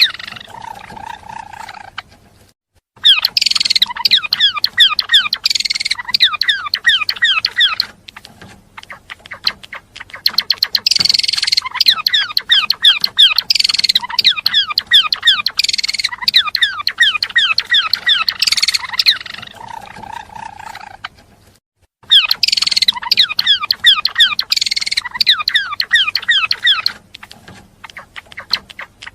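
A gelatik belong songbird singing lively chattering phrases of rapid, quickly falling high notes, in long bursts broken by short pauses twice.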